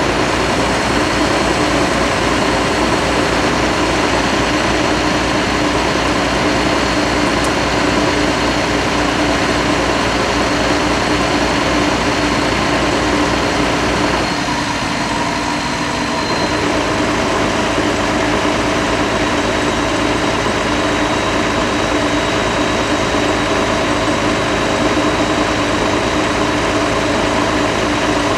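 Bucket truck's engine running steadily at a constant speed, its note shifting briefly about halfway through.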